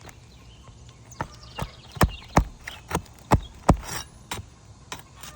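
Irregular sharp knocks and taps, about eight in all, of a tool working old asphalt roof shingles loose to pull their nails, with a brief scrape near the end.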